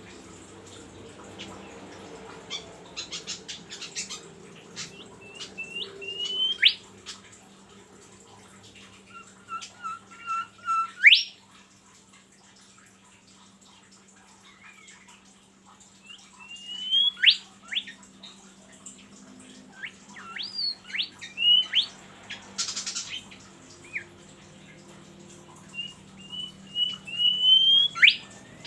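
A bird singing in repeated phrases: a run of short chirps climbing in pitch, each phrase ending in a quick upward-sweeping whistle, about five phrases with pauses between them, over a faint steady hum.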